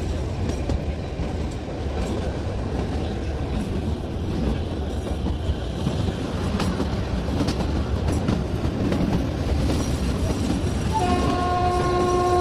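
Kalka–Shimla narrow-gauge toy train running, heard from inside a coach: a steady rumble of wheels on the rails with scattered clicks. Near the end the train's horn sounds as one steady held note.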